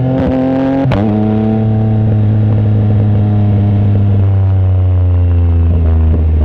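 Yamaha MT-09 SP's inline three-cylinder engine through an aftermarket exhaust with the baffle removed, heard while riding. It shifts up about a second in, then its pitch slowly falls as the bike eases off.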